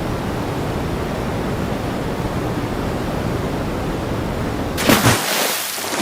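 Steady rushing and scraping of a person sliding down an old water slide, with a short louder scrape and thump about five seconds in as they reach the bottom.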